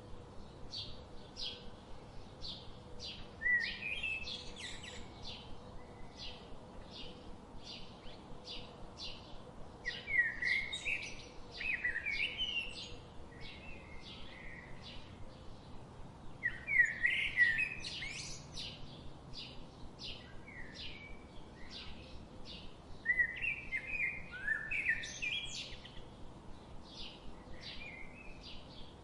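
Birdsong: a steady run of short, high chirps about twice a second, with louder warbling phrases breaking in four times.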